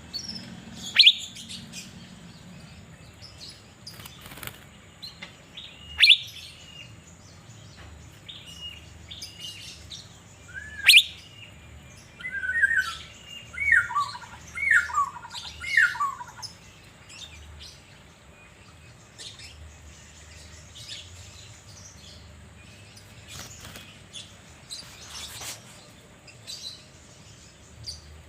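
Asian fairy-bluebird (cucak biru) calling: three loud, sharp whistled notes that drop in pitch, about five seconds apart, then a quick run of short two-part whistles for a few seconds, with fainter chirps afterwards.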